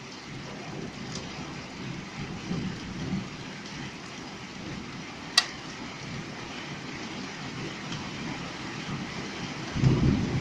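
Hail and rain falling in a thunderstorm: a steady hiss with low rumbling underneath. There is one sharp knock about halfway through, and a louder burst of low rumbling near the end.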